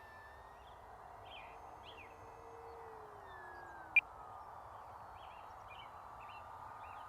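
Electric motor and propeller of an FMS Cessna 182 Skylane RC plane flying at a distance: a faint steady whine that falls in pitch about three seconds in, then holds. Faint bird chirps, and a single short sharp chirp about four seconds in.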